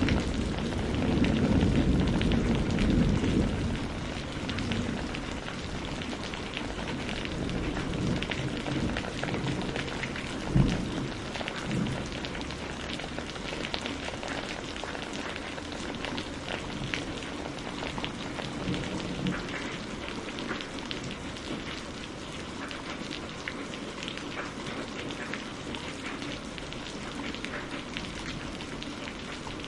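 Steady rain falling, with many close drop patters. A low thunder rumble fades out over the first few seconds, and a short low thump sounds about ten seconds in.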